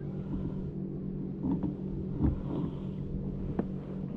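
Boat motor running steadily at trolling speed, a constant hum, with a few faint knocks in the boat.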